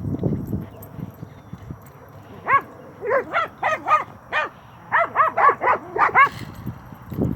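A dog barking during play: about a dozen short, high-pitched barks in two quick runs, starting about two and a half seconds in. A low rumbling noise is heard at the very start.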